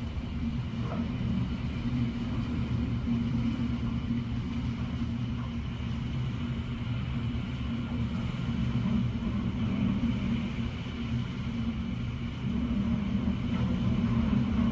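Hurricane-force wind heard from inside a house through a closed window: a steady low rumble with no gusts standing out.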